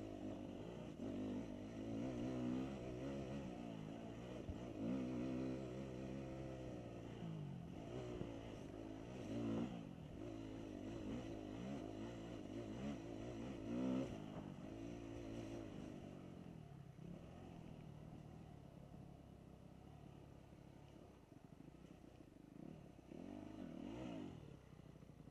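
Dirt bike engines on a motocross track, revving up and down repeatedly as they accelerate and back off, with several louder surges through the first half. The sound gets fainter after about sixteen seconds.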